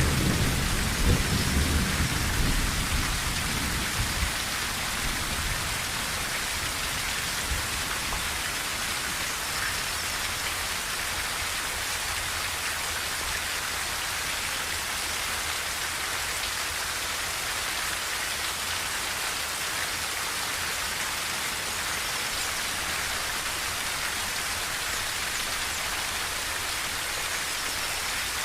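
Rain drumming steadily on a tin roof, with a low rumble of thunder dying away over the first few seconds.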